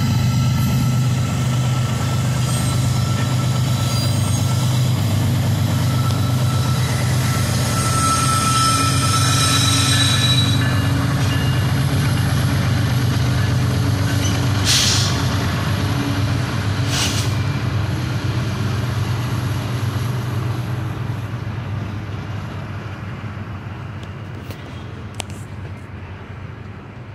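Freight trains passing a level crossing: BNSF diesel locomotives hauling a coal train go by with a steady low engine rumble and rolling wheels, while a double-stack container train rolls past on the far track, with some wheel squeal. Two short hissing bursts come about halfway through, and the sound slowly fades toward the end.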